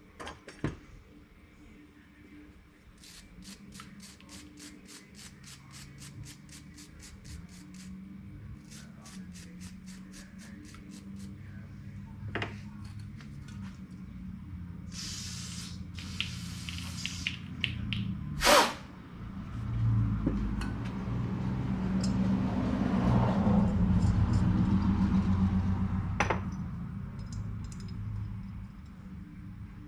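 Bench work on a dirt bike carburetor being put back together after its jets were cleaned: two runs of rapid even clicking, about four a second, a short spray hiss around the middle, a sharp knock, then a louder low rumbling stretch that swells and fades.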